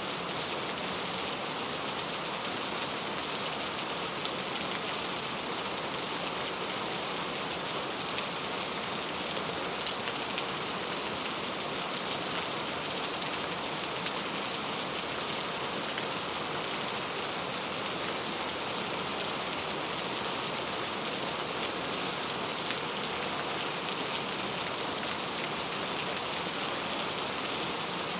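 Steady rain falling on a surface: an even hiss with scattered individual drop ticks.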